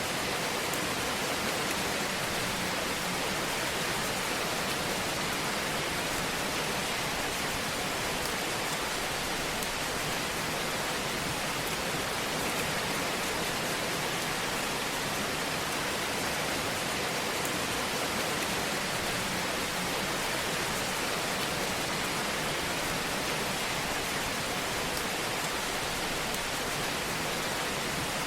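Fire in a fireplace burning with a steady hiss and faint, scattered crackles.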